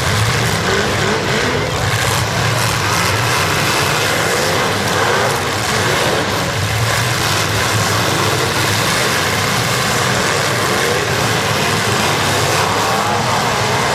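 Several demolition derby cars' engines running and revving together, a steady loud din with pitches rising and falling.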